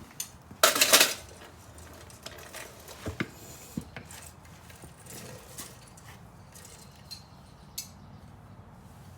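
Metal tools and parts clanking and clinking in a workshop: a loud clatter about a second in, then scattered lighter clicks and knocks over a low steady hum.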